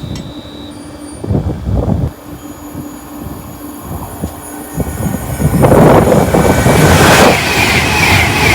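A train passing at speed: a low rumble at first, then a loud rush of wheels and air builds about five and a half seconds in and stays loud, with a wavering high whine on top near the end.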